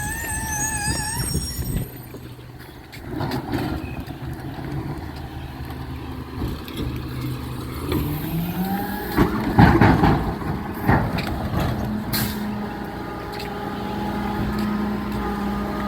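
Recycling truck: a brake squeals briefly at the start, then the diesel engine runs and rises in pitch, with a loud clattering burst about ten seconds in and a short hiss of air a couple of seconds later, settling into a steady hum.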